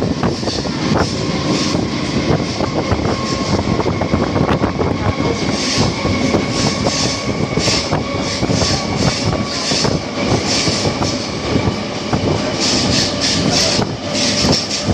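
Electric suburban local train running along the line, heard from its open doorway: a continuous rattle and clatter of wheels on the rails, with a thin steady whine over it.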